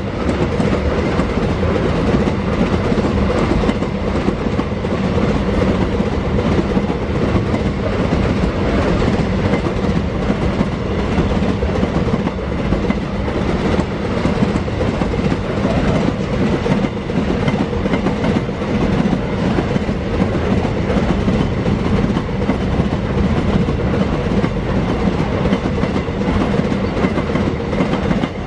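Freight train of open-top gondola wagons rolling past close by: a steady loud rumble of steel wheels on the rails, with a constant low hum running through it.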